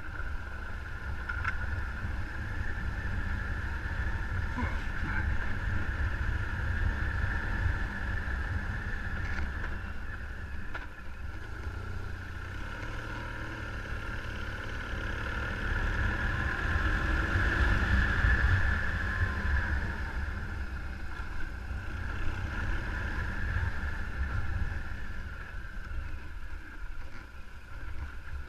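A vehicle running steadily under way, with heavy wind rumble on the microphone. A steady hiss swells and eases about two-thirds of the way through.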